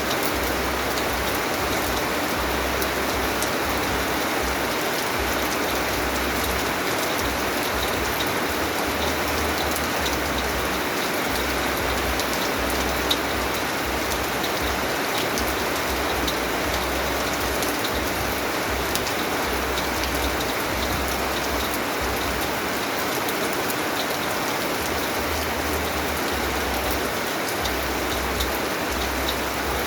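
Steady rain falling on a surface, an even hiss with scattered individual drops ticking; one drop lands more sharply about 13 seconds in.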